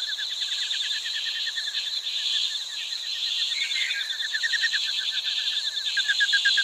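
Insects chirping in a steady chorus, fast even pulses over a constant high hiss.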